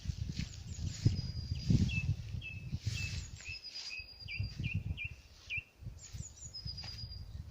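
Songbirds singing: repeated thin, level whistles held about half a second each, and short hooked chirps lower down, several in quick succession. Under them runs a louder, irregular low rumble.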